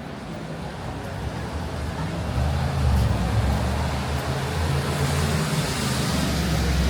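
A motor vehicle approaching and passing on a rain-wet street: a low engine rumble swells about two seconds in, and the hiss of tyres on wet tarmac grows near the end.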